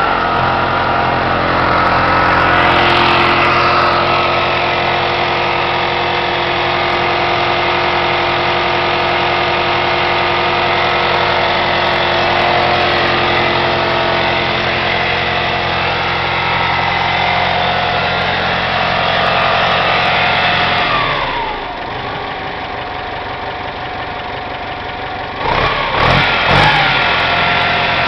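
Ford 172 four-cylinder diesel engine running steadily shortly after a cold start. About three quarters of the way in its speed falls to a lower, quieter idle, then it is briefly revved up and down a few times near the end.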